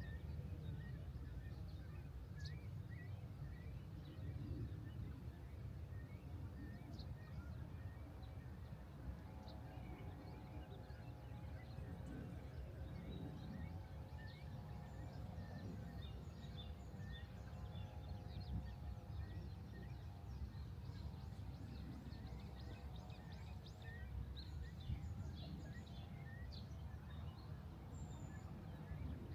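Quiet outdoor ambience: a constant low rumble, as of wind on the microphone, with small birds chirping here and there. A faint steady hum joins about a third of the way in and runs almost to the end.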